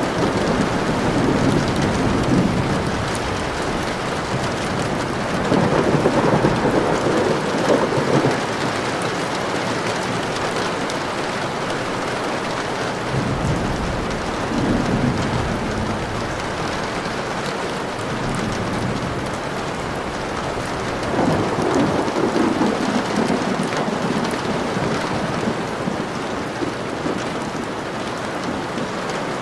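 Steady rain, with low rumbles of thunder swelling up four times.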